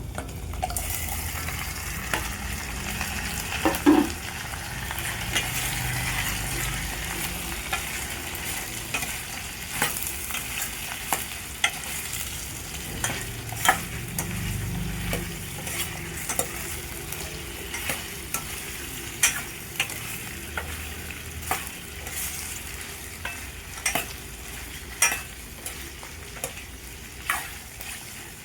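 Pre-boiled chicken feet sizzling as they are stir-fried with garlic in a pan, with a spatula scraping and knocking against the pan again and again.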